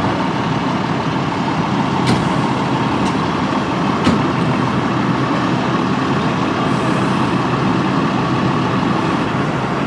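Steady running of a heavy emergency vehicle's engine, such as an idling ambulance or fire engine, with a few faint clicks about two, three and four seconds in.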